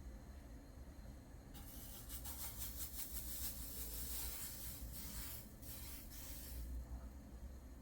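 Rapid rubbing strokes for about five seconds, starting about a second and a half in.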